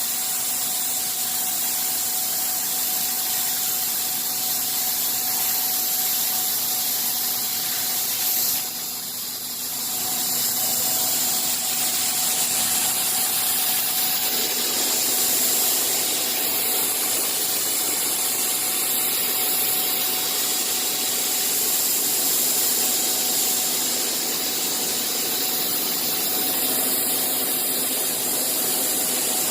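CNC machine running steadily: a constant hiss with a few steady humming tones, which drops briefly about nine seconds in and then carries on.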